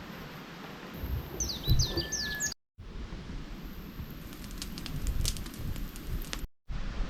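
A small bird gives a quick cluster of short falling chirps and one brief whistle over low rustling and rumbling. The sound then cuts out, and is followed by a run of sharp clicks and crackles.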